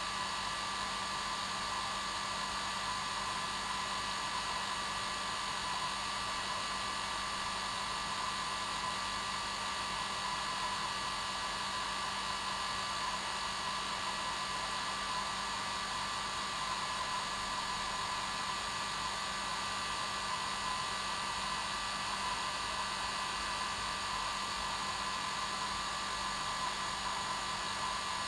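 Hair dryer running steadily on its normal setting: a constant airy rush with a steady motor whine.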